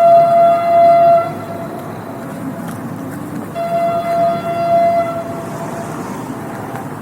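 Train horn sounding in two blasts, one just over a second long at the start and a second of about a second and a half in the middle, over the steady rumble of a moving train.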